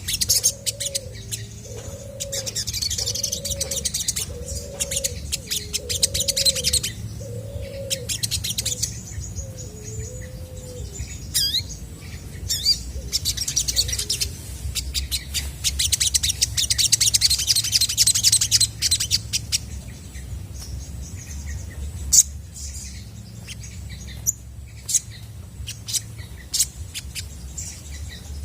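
Olive-backed sunbird singing: several bouts of fast, high chattering trills, with sharp single chips between them. Through roughly the first ten seconds a low, evenly repeated call from another bird sounds beneath the song.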